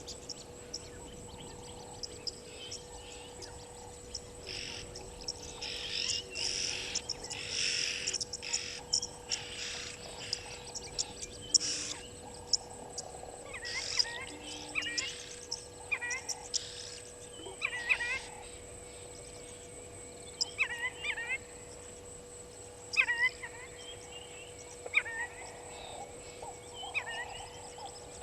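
Wild birds calling at a waterhole. Harsh, raspy calls come in the first third, then short sweeping chirps repeat every second or two, over a steady faint hum.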